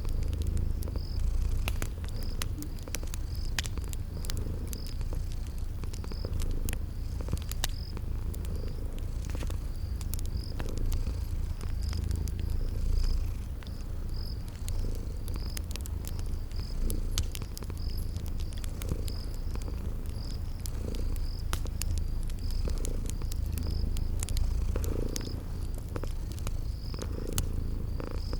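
A cat purring steadily, a low rumble that swells every couple of seconds with its breathing, layered with crackling fire pops and a cricket chirping at an even pace.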